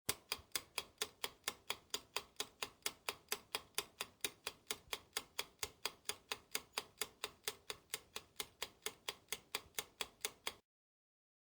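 Ticking clock sound effect, about four even ticks a second, counting down answer time; it cuts off suddenly near the end.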